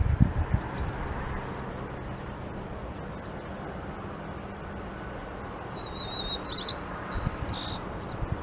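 Songbirds calling: a few short high chirps early on, then a quick trilling phrase followed by several high notes about six seconds in, over a steady background hiss. A few low thumps come at the very start and again around seven seconds.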